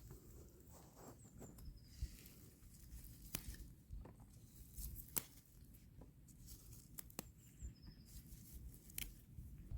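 Faint scattered rustles and sharp clicks, like handling or treading through vegetation, with a few faint high bird chirps.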